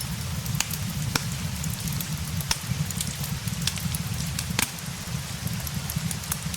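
Steady rain hissing, with scattered sharp crackles and pops from a wood fire.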